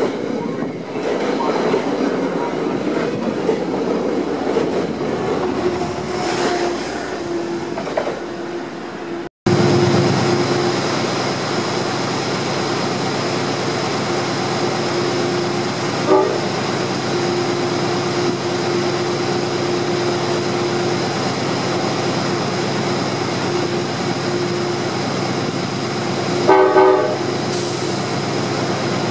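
A Metro-North push-pull train's coaches rolling past with wheel and rail noise. Then a GE P32AC-DM diesel-electric locomotive idles at the platform with a steady hum, and gives a short blast of its horn near the end.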